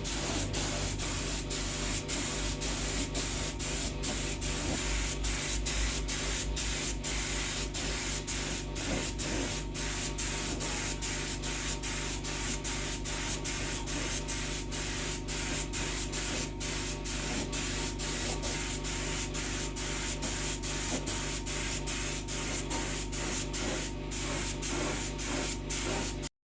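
Finish being sprayed onto the pine bookshelf: a steady spray hiss with brief dips about twice a second, cutting off suddenly near the end.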